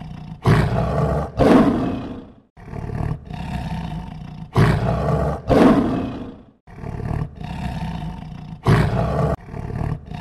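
Male lion roaring: a run of deep, rough roars in bouts, the loudest about one and a half and five and a half seconds in, with abrupt breaks between bouts.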